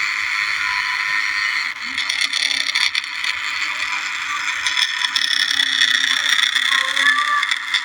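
Remote-control New Holland toy tractor's small electric motor and gearbox running steadily as it drives, a continuous whirring with a low hum underneath.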